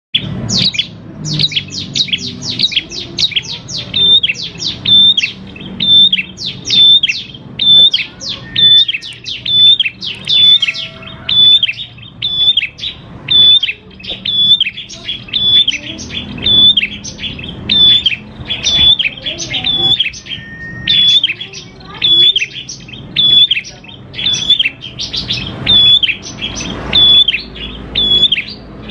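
Prenjak klawu (ashy tailorbird) singing a long, continuous run of sharp, high notes that sweep downward, repeated about twice a second without a break.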